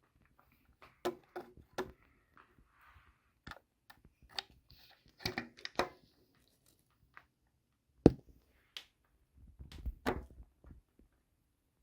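Scattered clicks, taps and knocks of hand tools and metal scooter engine parts being handled, with one sharp knock about eight seconds in.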